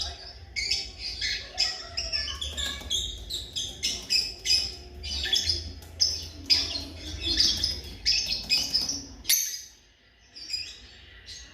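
A flock of lovebirds chirping in rapid, high, overlapping chirps over a low rumble. Both stop abruptly about nine seconds in, and a few more chirps follow near the end.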